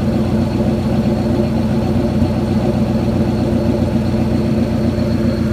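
Car engine idling steadily, a low, even running note with no revving.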